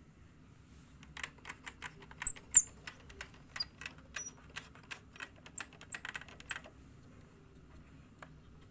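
A quick irregular run of small clicks and light metallic taps, a few with a short high ring, from small tools and parts being handled while a portable radio is worked on.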